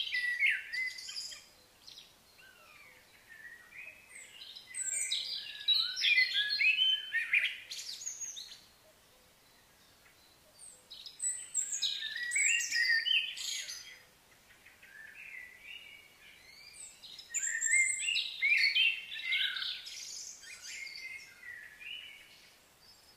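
Songbirds singing: several bouts of quick, high chirping phrases, each a few seconds long, with quieter gaps between them.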